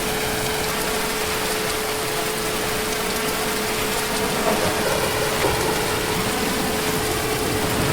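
Heavy rain falling steadily, a dense even hiss of drops on surfaces, with a faint steady hum running under it.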